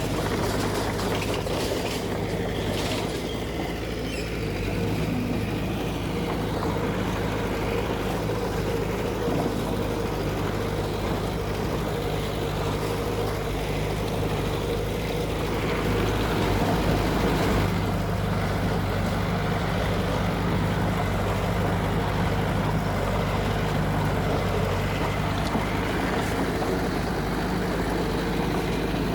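Diesel engine of heavy construction machinery running steadily with a low drone, a little louder for a moment near the middle.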